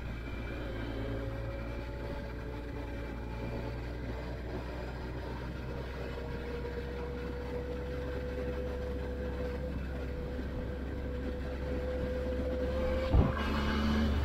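Triumph Tiger 1200 Explorer XRT's three-cylinder engine running steadily at an even pitch, with one sharp click near the end.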